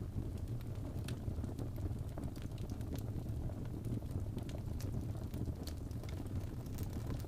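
Wood fire burning in a fireplace: a steady low rumble of the flames with irregular sharp crackles and pops scattered all through.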